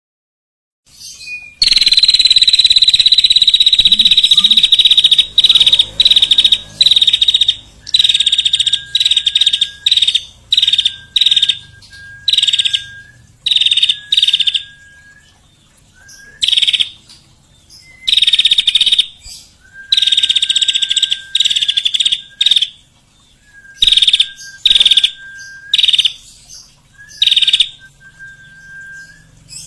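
Loud songbird calls: bursts of very rapid buzzy trilling, the first long and the rest short and repeated, many followed by a short, lower, level whistle. They start about a second and a half in.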